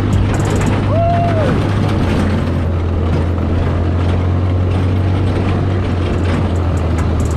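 Off-road buggy's engine running steadily under way, with wind and rough-track noise over it. A short rising-then-falling tone sounds briefly about a second in.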